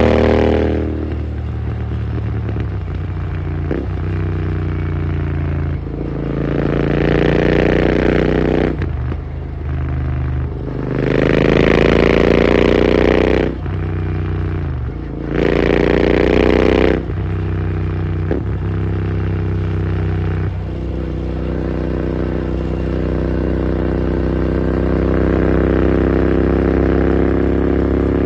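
Royal Enfield GT650's 648 cc parallel-twin engine running through an AEW aftermarket exhaust. The engine speed rises and falls several times, with the pitch dropping sharply when the throttle closes, and it runs steadily at lower speed for the last third.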